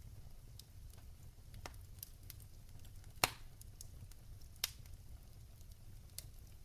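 Wood fire in a fireplace crackling: a low steady rumble of flames with scattered small pops, one loud sharp pop about halfway through and another a second or so later.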